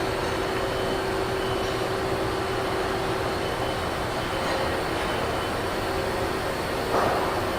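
Niigata HN80C CNC horizontal machining center running, a steady machine hum and whir with a constant tone. A short louder rush of noise comes about seven seconds in.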